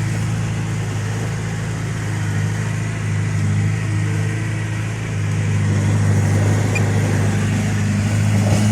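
Heavy diesel engine running steadily under load, with a steady low drone that gets a little louder about five seconds in.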